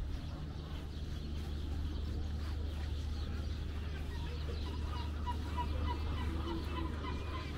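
A bird calling in a quick run of short, repeated notes in the second half, over a steady low rumble.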